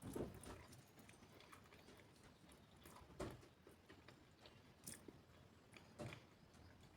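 Close-miked chewing and biting of food, faint and soft, with a few sharper bites: one right at the start, one near the middle and two near the end.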